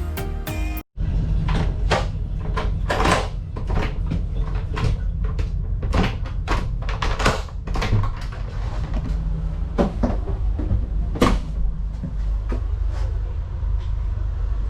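Background music cuts off about a second in, giving way to the passenger cabin of a docked fast ferry: a steady low rumble of the ferry's running machinery, with frequent knocks and clunks, like lockers, doors or seats being handled.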